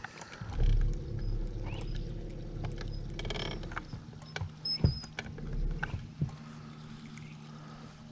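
A small boat motor running with a steady low hum, starting about half a second in, with a few sharp knocks and clicks over it.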